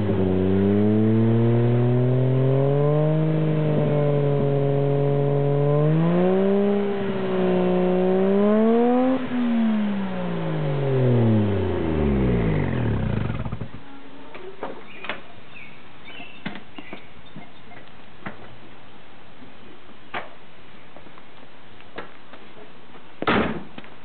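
1JZ-GTE twin-turbo straight-six breathing through a 3-inch Apexi catback with a hollowed-out catalytic converter, revved in a few gentle blips. About ten seconds in the revs fall away and the engine stops about fourteen seconds in. Scattered clicks and knocks follow, with a louder knock near the end.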